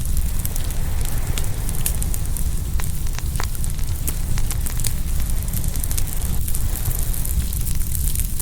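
Open wood fire crackling, with frequent sharp pops and snaps, over a steady low rumble of ocean waves breaking on the shore.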